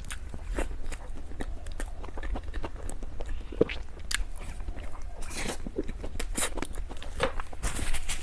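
Close-miked chewing and biting of desserts: irregular wet clicks and smacks, with a few longer crunchy crackles about five, six and a half and eight seconds in.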